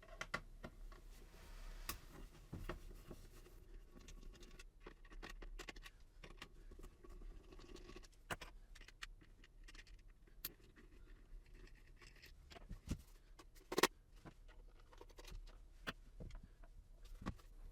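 Quiet scratching and scattered small clicks, typical of small screws being undone with a hand screwdriver and a plastic appliance casing being handled, with one sharper click late on.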